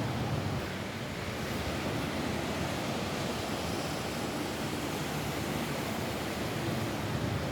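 Steady rain falling on a roof, an even hiss with no distinct drops standing out.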